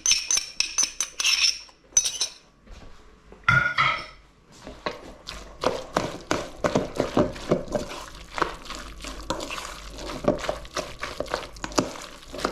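A utensil clinking against a bowl with a ringing metallic tone, then steadily stirring and mixing a thick bhaji batter, with rapid irregular knocks and scrapes against the bowl from about four seconds in.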